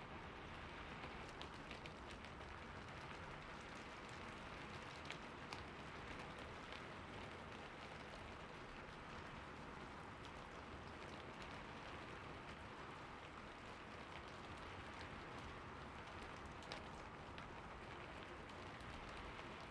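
Steady rain falling, an even hiss with scattered sharper drop ticks, a few of them standing out, about five seconds in and again near the end.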